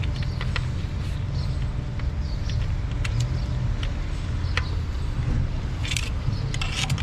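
Workshop noise: a steady low mechanical rumble under scattered light metallic clicks and taps, with a couple of short hissy bursts near the end.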